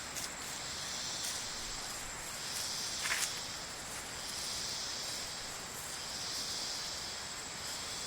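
Insect chorus: a high, hissing drone that swells and fades about every two seconds, with one short tap about three seconds in.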